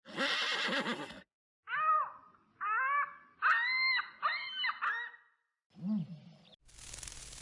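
A series of short animal calls: a rough call at first, then about six rising-and-falling pitched calls, and a brief low call. A steady hiss sets in near the end.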